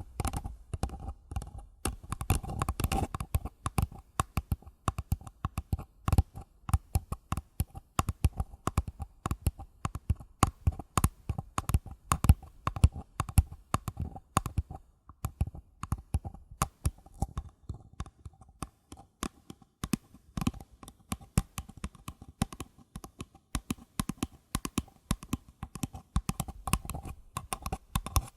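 Fingers tapping on paper cups in quick, irregular runs of light taps, several a second.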